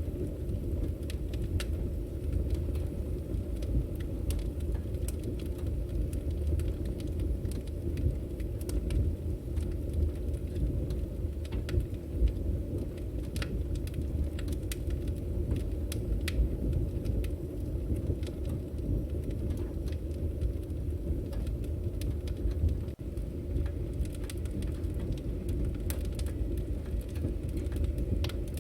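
Wood fire burning: a steady low rumble of flames with scattered crackles and pops from the burning firewood.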